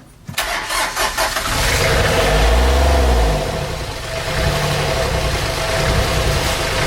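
An engine starts just after the beginning and runs with a steady hum, rising and falling in pitch once about two to three seconds in, like a brief rev.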